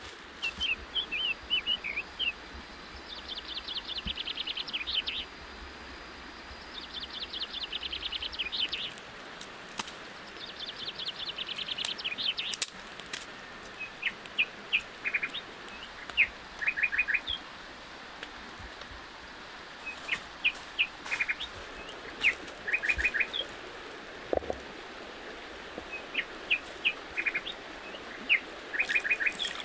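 Small birds chirping and trilling over a steady background hiss: three runs of fast high trills in the first half, then short clusters of chirps every few seconds.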